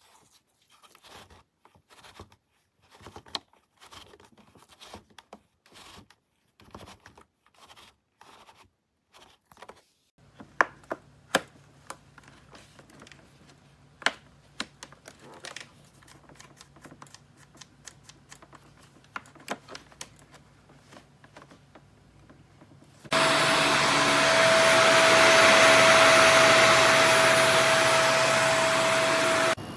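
Clicks and rustles of handling, then a Shark Vertex upright vacuum switched on about two-thirds of the way in, its motor running loud and steady with a constant whine, cutting off suddenly near the end.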